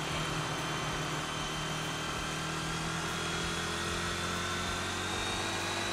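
Motorcycle engine running steadily, a constant hum with a whine that rises slowly in pitch.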